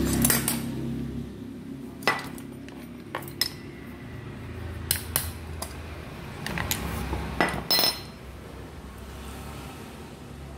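Metal tools and metal parts clinking and tapping: about a dozen sharp, irregular knocks with a short ring, typical of working a U-shaped retaining clip onto the bearing of a rotary hammer's rotor. A low rumble underneath fades out in the first second or so.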